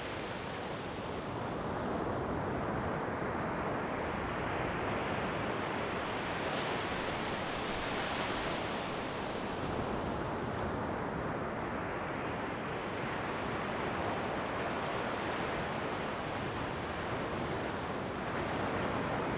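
Ocean waves washing on the shore: a steady rush of surf that swells with a breaking wave near the middle and again near the end.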